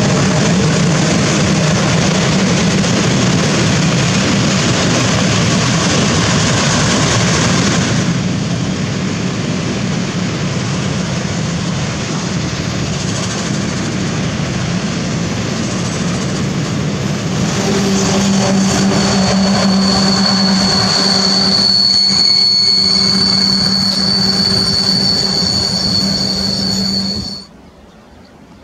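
Freight train of tank wagons rolling past at speed: a loud, steady rumble of wheels on rail, easing a little after about eight seconds. In the last third a high, steady wheel squeal rises over the rumble, and the sound cuts off suddenly near the end.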